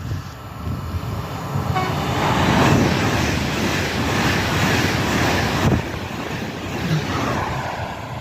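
Train passing through the station, a loud rushing rail noise that builds about two seconds in and eases off after about six seconds, with a brief horn note as it arrives.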